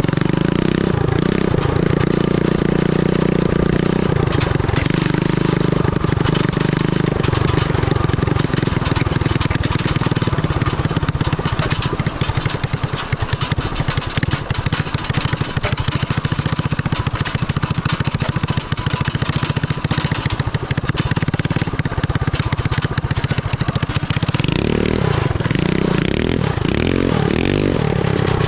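Homemade go-kart's 250 cc motorcycle engine running, with a steady pulsing note through the middle and the revs rising and falling several times near the end.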